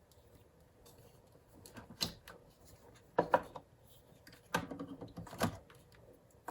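A few short clicks and knocks of small objects being handled: one about two seconds in, a quick pair a little after three seconds, and a cluster between about four and a half and five and a half seconds, with faint room noise between.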